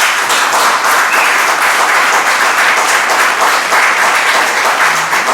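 Audience applause and clapping at the end of a song, starting suddenly and going on steadily.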